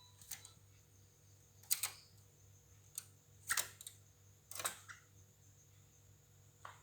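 A handful of sharp, irregular clicks and taps, about six over several seconds, over a faint steady hum.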